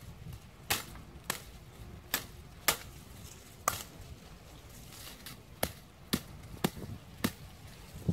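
A series of about nine sharp knocks or chopping strikes at uneven intervals, each short and crisp.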